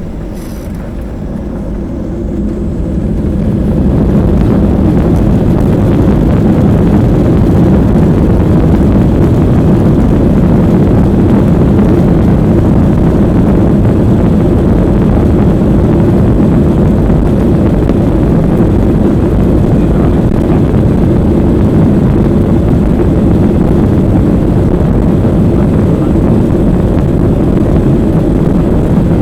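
Boeing 737-800's CFM56-7B jet engines spooling up to takeoff thrust, the noise rising over the first few seconds and then holding as a loud, steady rumble through the takeoff roll.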